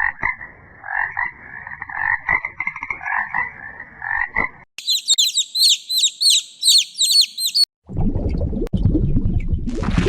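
Frog croaking in rapid, repeated pulsed calls. After about four and a half seconds it cuts to a few seconds of fast, high-pitched chirping, then to a low, rough noise near the end.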